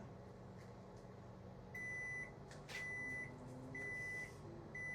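Over-the-range Samsung microwave oven humming steadily, then about two seconds in giving four evenly spaced high beeps about a second apart, the signal that its 6-minute cycle has ended.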